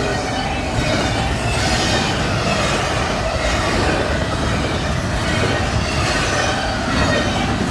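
A long freight train's cars rolling past close by: a steady rumble and rattle of steel wheels on the rails, with faint wheel squeal over it.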